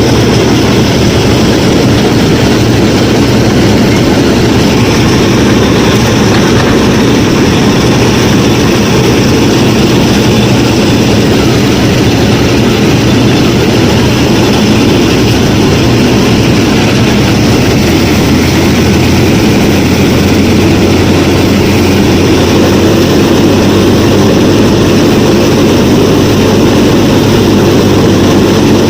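Small motor running steadily with a continuous mechanical hum, the drive of a DIY mini combine harvester and wheat thresher at work.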